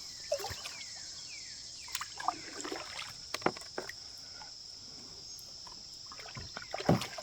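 Steady high-pitched buzz of insects, with scattered light knocks and small water splashes around a kayak; the loudest knocks come near the end.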